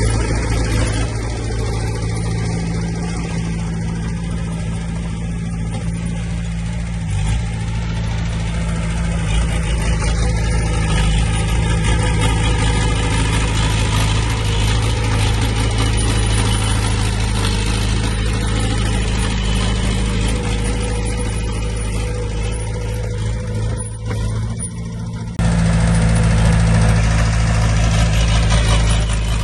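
Diesel engine of heavy earthmoving machinery running steadily, with mechanical clatter over it. The sound jumps suddenly louder about 25 seconds in.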